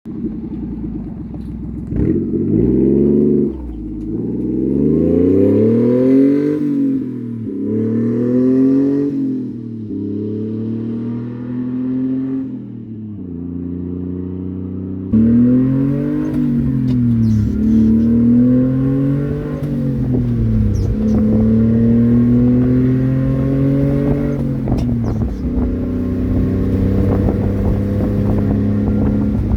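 1994 Honda Acty truck's 660cc three-cylinder engine pulling through the gears. Its pitch climbs and drops back with each shift, then holds steady near the end. It sounds through a fairly significant exhaust leak just before the muffler. From about halfway, a rushing noise runs under the engine.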